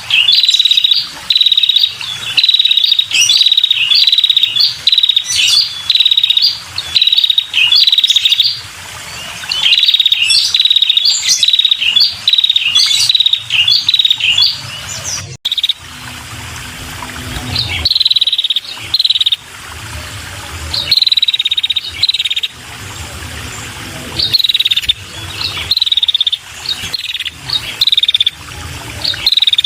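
Female red-headed prenjak calling: runs of short, sharp notes repeated about one and a half times a second, with a brief break about halfway. This is the call used to lure male prenjak.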